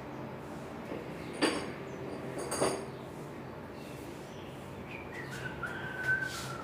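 Metal parts clinking twice, each a sharp strike with a brief high ring. About five seconds in comes a thin high tone that glides down and holds.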